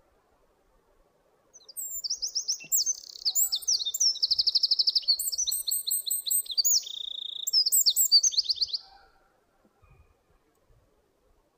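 Eurasian wren singing one loud, high song of about seven seconds, a rapid run of trills and quick notes that starts about a second and a half in.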